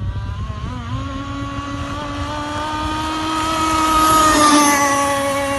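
Small glow-fuel engine of an RC catamaran drag boat (RPB Dragcat, SX engine with tuned crankcase and RCMK tuned exhaust) running at high revs: a loud, steady whine that climbs in pitch about a second in and holds there. It grows loudest around four seconds in as the boat passes close, then its pitch sags slightly.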